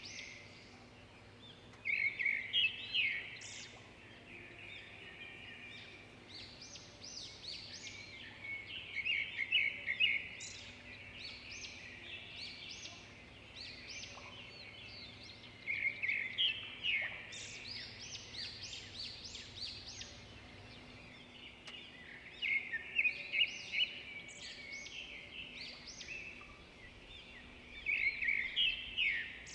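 Birds calling in bursts of rapid high chirps, one burst about every six or seven seconds, over a faint steady low hum.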